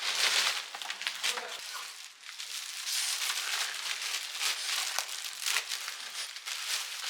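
Parcel packaging crinkling and rustling as it is handled and unwrapped, with dense, irregular crackles throughout.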